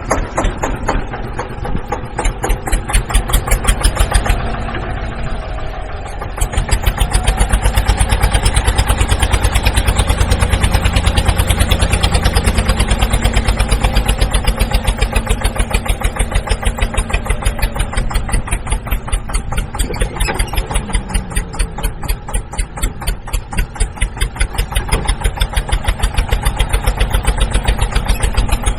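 Tractor engine running with a fast, regular pulsing beat. It drops quieter about four seconds in, then comes back louder about six seconds in and runs steadily.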